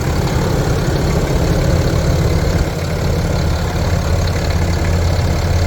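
Ram 3500's 6.7-litre Cummins inline-six turbo-diesel idling steadily.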